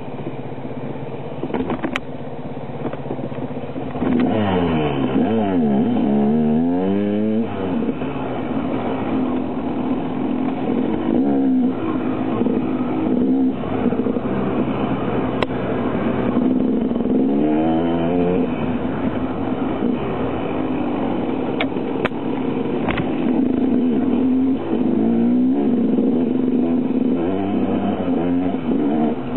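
Enduro motorcycle engine running under way, its pitch rising and falling with the throttle several times, louder from about four seconds in. A few sharp clicks are heard among the engine sound.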